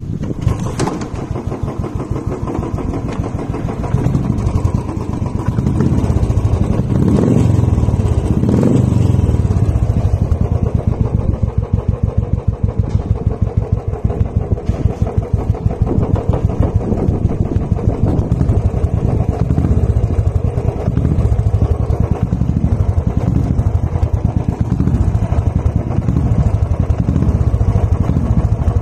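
Royal Enfield Standard 350 single-cylinder engine running through an aftermarket Iron Head exhaust, giving a steady, evenly pulsing exhaust note. The throttle is blipped twice, about seven and nine seconds in, with the note rising each time, then it settles back to a steady idle.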